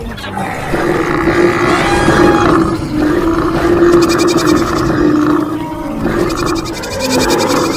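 Animal stampede sound effect: animal roars and calls over a continuous dense rumble.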